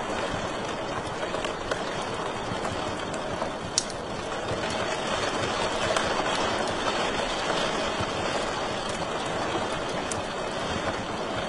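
Wood fire burning in a fireplace: a steady rushing hiss with scattered crackles and one sharp pop about four seconds in.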